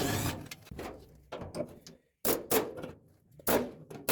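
Irregular clanks, knocks and scrapes of tools and sheet-metal body panels being handled, in uneven bursts with short pauses between them.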